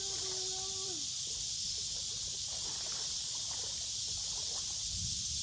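Steady high-pitched insect chorus, an unbroken shrill hiss. In the first second a drawn-out, voice-like pitched tone is held and then drops away.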